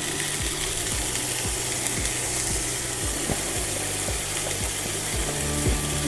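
Soy mince frying in hot oil in a pan: a steady sizzle with scattered crackles and pops.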